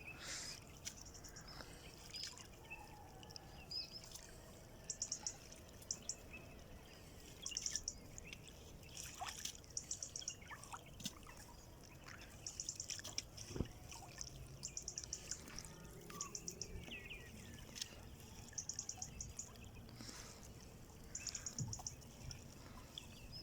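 Birds calling in short, high, rapid trills every second or two, with smaller chirps between, over faint trickling water.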